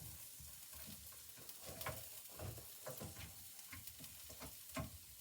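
Brisket burnt ends sizzling faintly, with light irregular crackles and ticks.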